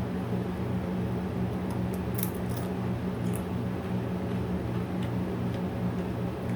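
Eating sounds, with a few sharp crisp clicks or crunches about two to three seconds in, over a steady low hum that pulses about twice a second.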